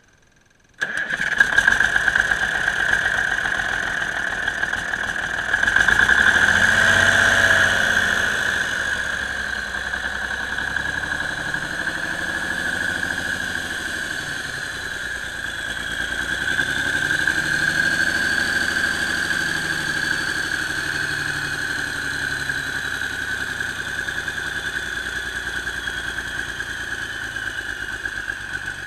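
Cummins NTC-335 inline-six turbocharged diesel (855 cubic inch, small cam) starting abruptly about a second in, revving up for a few seconds, dropping back, swelling gently again midway, then settling to a steady run. A steady high whine runs over the engine sound throughout.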